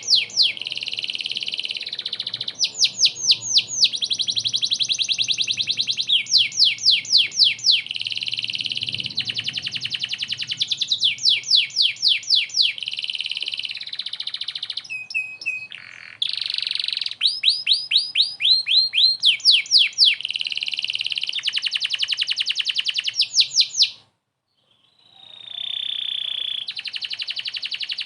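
Domestic canary singing vigorously and without pause: fast runs of repeated downward-sweeping notes alternating with long dense trills. The song breaks off for about a second near the end, then resumes.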